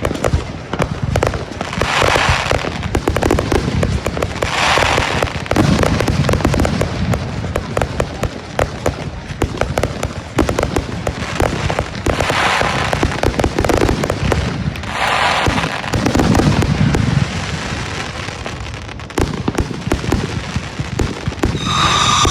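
Fireworks going off without a break: dense, continuous crackling and popping, with louder bursts swelling every few seconds.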